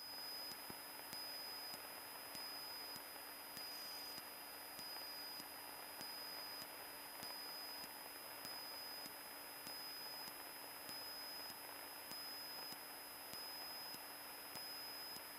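Faint steady hiss with thin high whines and soft, evenly spaced ticks: an aviation radio feed idling between transmissions, just after a call cuts off.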